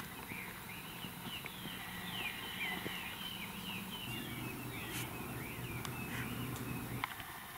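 Forest birds singing: a busy run of quick, sweeping chirps and trills, over a faint low hum that stops near the end.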